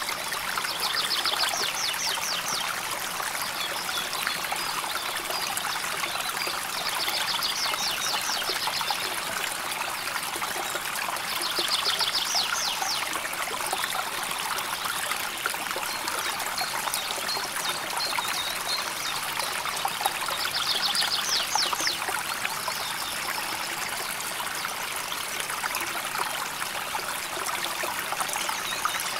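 River water flowing and trickling steadily over stones. A short, high, rapid trill sounds four times over it.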